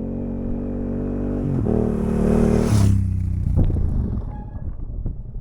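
Motorcycle engine running, its pitch stepping up about a second and a half in. It rises to a loud low rumble with a rushing sound near three seconds, then fades.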